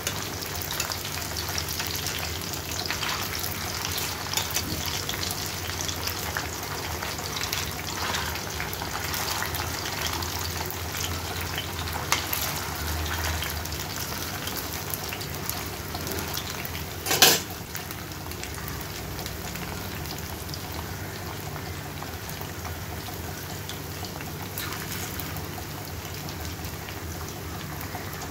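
Mutton kababs coated in grated cheese sizzling and crackling steadily as they shallow-fry in oil in a nonstick pan. One sharp metal knock about two-thirds of the way through, as tongs meet the pan while the kababs are turned.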